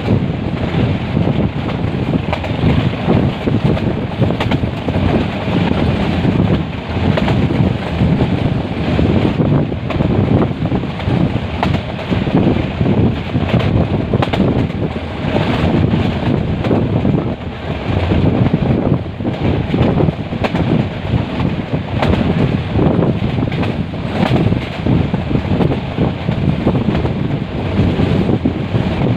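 Wind buffeting the microphone over the steady rumble of a moving metre-gauge passenger train, with irregular knocks from the running gear.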